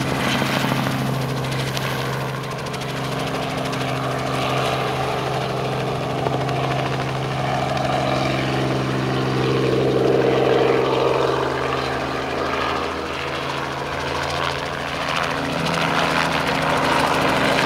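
Helicopter running with a steady, low engine-and-rotor drone.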